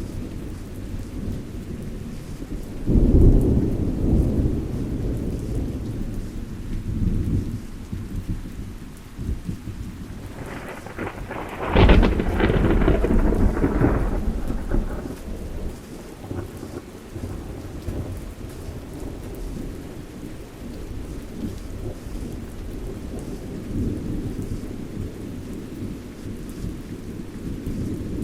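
Thunderstorm: steady rain under rolling thunder. A low rumble swells about three seconds in; about ten seconds in a louder thunderclap cracks and rumbles away over several seconds.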